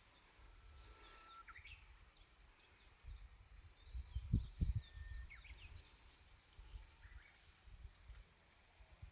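Wild songbirds singing faintly. A held whistle about a second in breaks into quick rising notes, and high thin chirps are scattered throughout. Low rumbling bumps run underneath and are loudest about four and a half seconds in.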